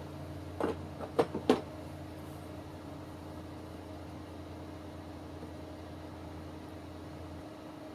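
A quick run of about five short, sharp knocks, as of something hard handled on a workbench, over a steady low hum.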